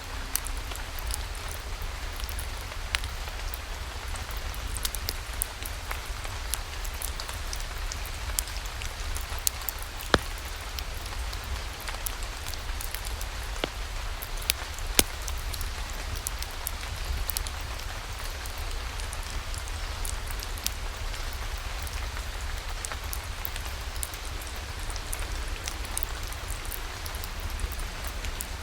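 Steady rainfall with scattered sharp ticks and crackles over it, and a constant low rumble underneath.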